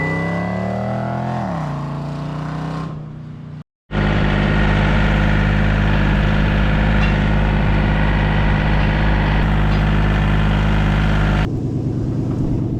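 An engine whose pitch falls as it slows, then, after a brief cut to silence, an engine running at a steady speed.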